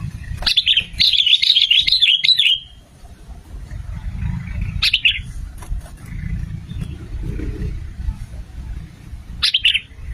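Sooty-headed bulbul (kutilang) singing: a rapid chirping phrase about two seconds long soon after the start, then two short calls, about five and nine and a half seconds in, over a low rumble.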